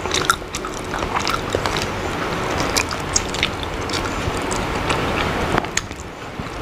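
Close-miked mouth sounds of a person eating soft raw smoked salmon dipped in sambal: wet chewing, lip smacks and finger-licking clicks, over a steady low hum.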